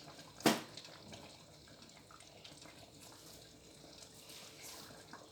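Palm oil being poured into a pot of simmering egusi soup, a quiet liquid pour. There is one sharp knock about half a second in.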